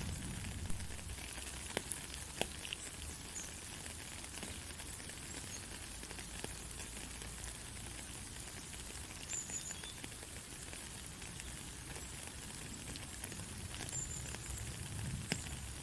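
Steady heavy rain hissing, with scattered sharp drip ticks. A low rumble sits under it at the start and swells again near the end.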